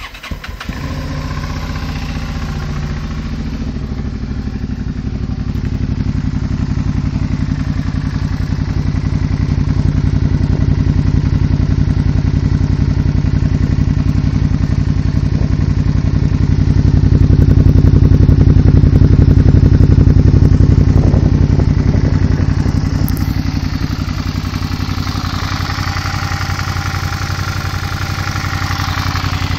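A 2011 Suzuki V-Strom 650's V-twin engine, breathing through an aftermarket Racetech exhaust, starts up right at the beginning and then runs steadily. Its level grows louder toward the middle and settles back near the end.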